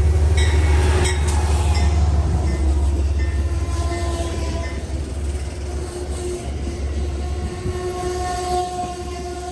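Amtrak Maple Leaf passenger train running through the station: a steady low locomotive and wheel rumble with thin, steady high tones over it, slowly fading.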